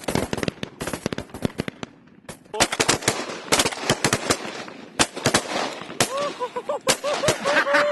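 Rapid volley of shotgun fire from several hunters shooting at geese, dozens of shots in two bursts over the first five or so seconds. Geese honking from about six seconds in.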